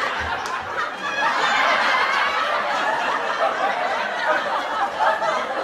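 A group of people laughing, many voices overlapping.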